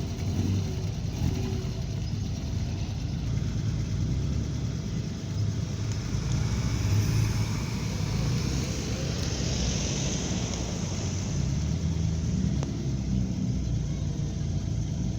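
Several car engines running at low speed as a slow line of classic and sports cars creeps past, with one car passing closer around the middle.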